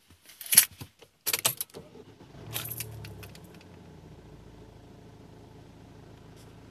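Keys jangling and clicking, then about two and a half seconds in a low hum starts, swells briefly and settles into a steady idle, typical of the Kia Sorento's 2.2-litre turbo diesel being started.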